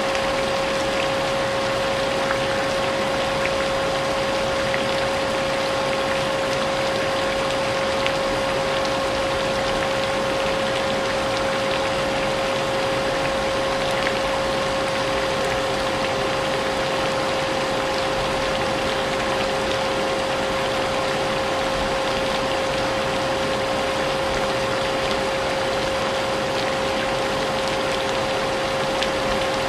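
Vacuum cleaner running steadily with a constant motor whine, mixed with the even hiss and patter of rain.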